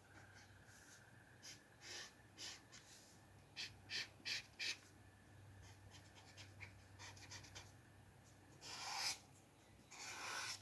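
Faint, short scratchy strokes of a pen or pencil on paper, with a quick run of four or five strokes about midway and two longer rubbing strokes near the end.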